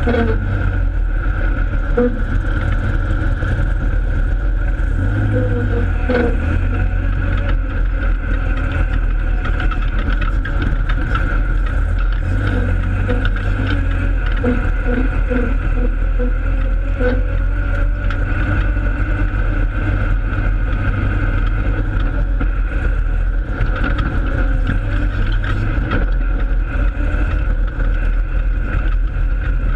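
Holden Torana race car heard from inside the cabin: a loud, steady engine and road drone that holds an even note with little revving.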